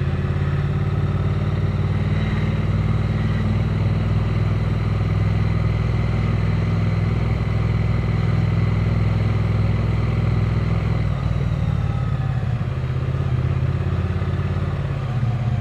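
Triumph Speed Twin 900's parallel-twin engine running steadily as the motorcycle is ridden, easing off a little about eleven seconds in and picking up again shortly after.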